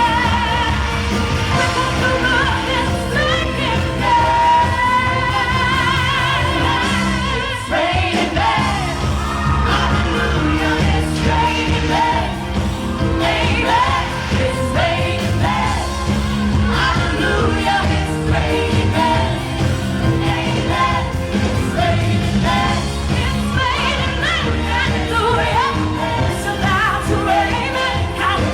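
A woman singing an up-tempo pop song live over a full band, holding one long note with vibrato a few seconds in.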